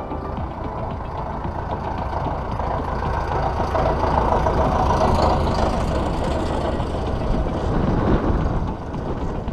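A motor vehicle passing by, its engine and tyre noise building over a few seconds, loudest around the middle, then fading away.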